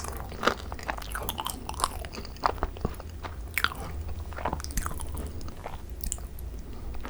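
Close-up chewing of overfilled Korean macarons (ttungkaron): irregular crisp bites and crunches of the shell with wet, sticky smacks of the thick cream filling.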